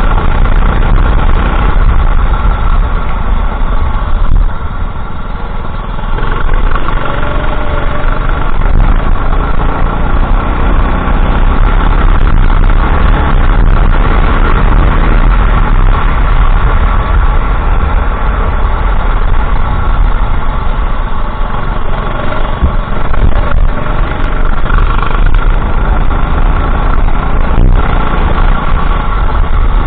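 Go-kart engine running hard, loud and continuous, easing off briefly about four and a half seconds in and again past the twenty-second mark before pulling again.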